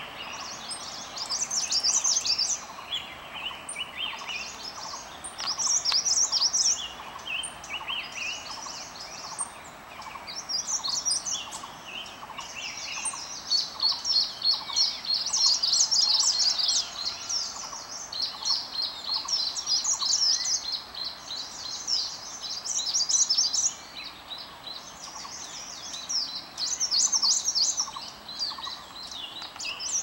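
Several wild birds singing, with loud bursts of rapid high notes coming every few seconds and lower, stepping-down notes between them, over a faint steady ticking lower in pitch.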